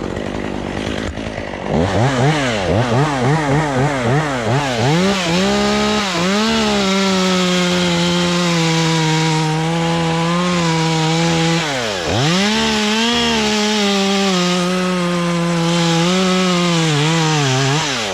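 Two-stroke chainsaw blipped up and down quickly several times, then held at full throttle cutting wood, easing off briefly about two-thirds of the way through before opening up again, and dropping back right at the end.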